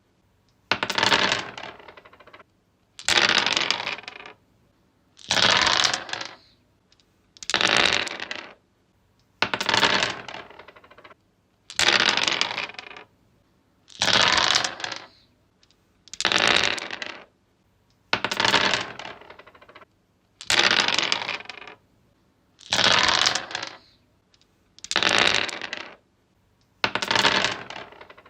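Dice rolled again and again on a wooden surface: each roll is a sharp clatter that rattles and tumbles to a stop within about a second, repeating roughly every two seconds.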